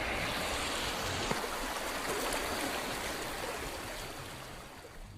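River water flowing and rushing steadily, fading out near the end.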